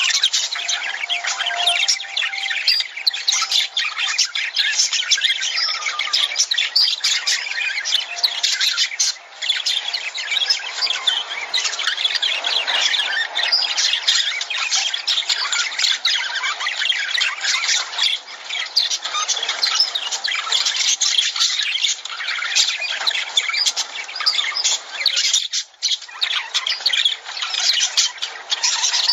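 A flock of lovebirds calling, with many short, high-pitched calls overlapping almost without pause. There are two brief lulls, about nine seconds in and near twenty-six seconds.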